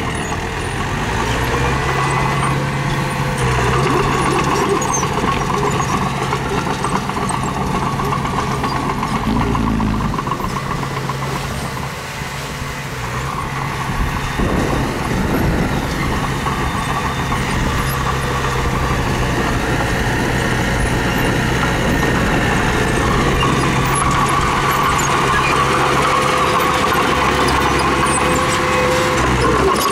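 Mini bulldozer's diesel engine running steadily as it works, dipping briefly around twelve seconds in.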